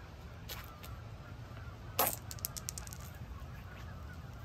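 Canada-type geese honking faintly in the background over a steady wind rumble on the microphone. About two seconds in, a sharp clack of rocks knocking together, followed by a few small clicks as they drop and settle.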